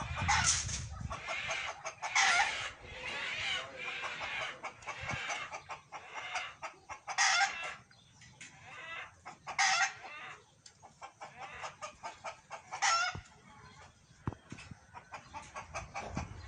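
A flock of chickens clucking, with roosters crowing: about five loud calls stand out over steady clucking.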